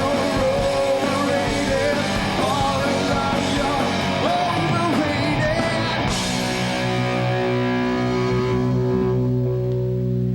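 Rock band playing live: electric guitars, drums and vocals. About six seconds in, the drums and cymbals stop and a final chord is held, ringing steadily.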